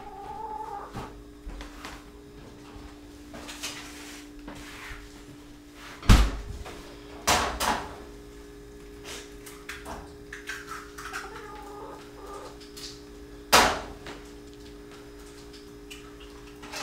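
Eggs being cracked against a frying pan: a few sharp knocks and clatters, the loudest about six seconds in, more just after, and one more near the end, over a steady low hum.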